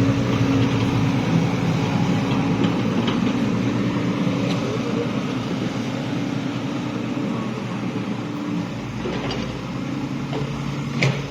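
A vehicle engine running steadily at an even pitch, easing slightly quieter later on, with a short sharp click near the end.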